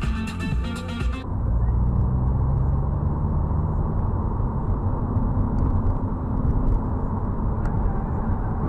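Music cuts off about a second in, followed by steady vehicle driving noise: a low engine and road rumble, with a few faint clicks.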